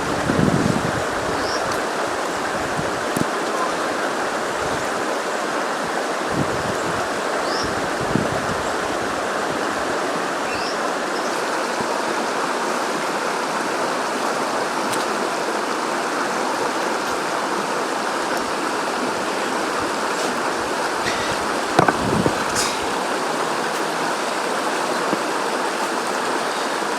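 River water flowing with a steady, even rush. A few soft knocks come through it, the loudest about five seconds before the end.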